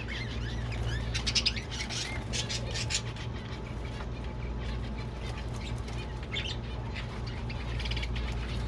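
Caged birds chirping and squeaking in quick clusters, with some wing flapping, over a steady low hum. The chirps are densest in the first few seconds and come again in shorter bursts later on.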